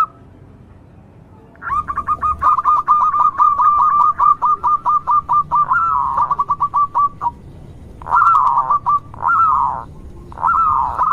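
Zebra dove (local perkutut) singing: a long run of rapid, clipped cooing notes, about five a second, followed by three shorter warbling phrases.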